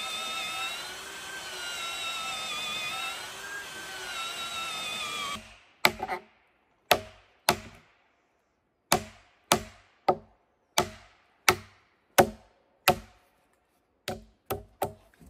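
A pitched drone that wavers up and down in pitch stops suddenly, and is followed by an axe chopping wood in sharp, evenly paced strikes, about one every two-thirds of a second, with a quicker run of four strikes near the end.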